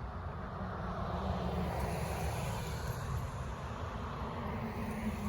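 A vehicle passing: a steady low rumble with a rush of noise that swells a second or two in.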